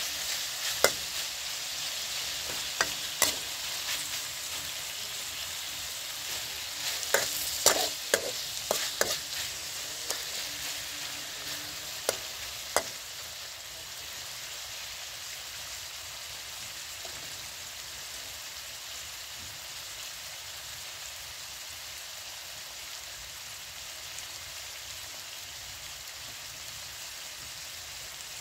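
Pork sizzling in a wok while a metal spatula scrapes and knocks against the pan. The stirring stops about halfway through, leaving a steady sizzle.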